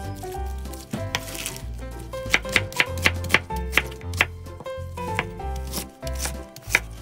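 Kitchen knife slicing an onion on a bamboo cutting board: a quick run of sharp chops about two to three and a half seconds in, with more scattered cuts after. Background music with a steady bass line plays throughout.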